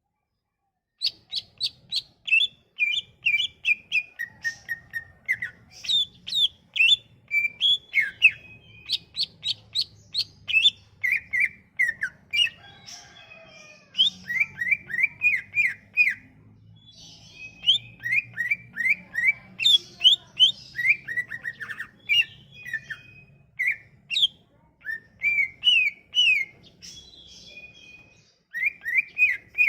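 Cucak ijo (greater green leafbird) singing: fast runs of short, sharp, down-slurred whistled notes in repeated phrases, with brief pauses between phrases.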